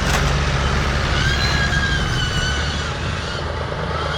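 Diesel tractor engines running steadily under load, pulling and pushing a heavily loaded trolley.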